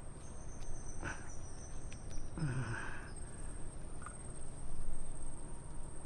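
Insects shrilling with a steady, high-pitched tone, and a short sound falling in pitch about two and a half seconds in.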